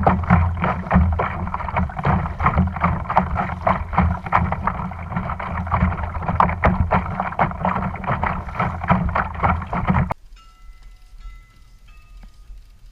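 Rough wind-and-water noise on the microphone of a camera on a kayak out on the sea, loud and irregular with many short crackles. About ten seconds in it cuts off suddenly to a few soft held music notes.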